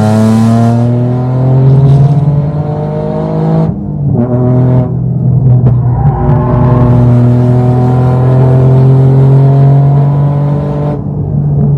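Toyota GR Yaris's turbocharged 1.6-litre three-cylinder engine accelerating hard: revs climb, drop sharply with upshifts about four and five seconds in, then rise slowly through a long pull before falling near the end.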